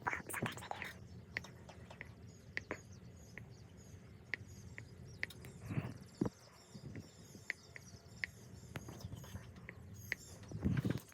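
Songbirds chirping faintly over scattered soft clicks and rustles, with a louder rustle in the first second and another near the end.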